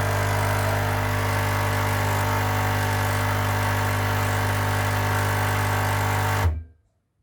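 Nespresso Citiz coffee machine's vibratory pump buzzing with a loud, steady hum, then cutting off suddenly near the end. It runs but draws no water from the tank: the pump is stuck and not making vacuum.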